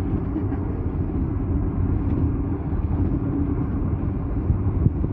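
Box truck driving: a steady low rumble of engine and road noise, with a faint hum, and a brief sharp knock near the end.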